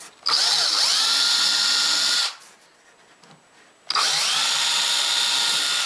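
Power drill running in two bursts of about two seconds, the motor whine climbing quickly as it spins up, then holding steady until it stops sharply.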